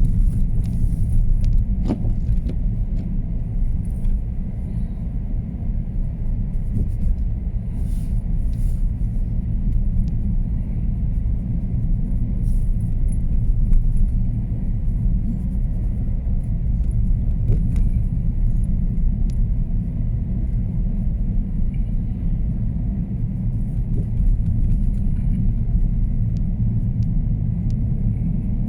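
Steady low road and engine rumble inside a moving car's cabin on a bumpy, snowy road, with scattered small clicks and rattles.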